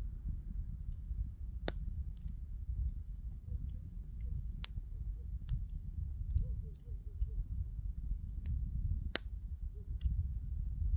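Wood bonfire crackling: sharp, irregular pops every second or two over a steady low rumble.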